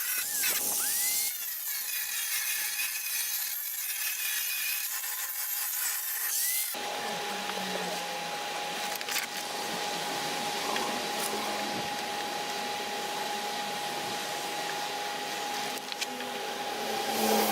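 Power tool sanding the body panels and filler. About seven seconds in the sound changes abruptly to a steadier running note with a held tone.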